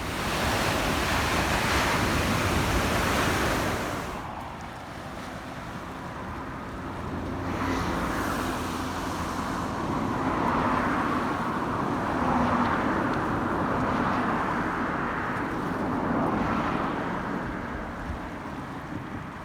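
Ocean surf breaking and rushing in, a steady roar of white water that is loudest in the first few seconds, then swells and eases several more times.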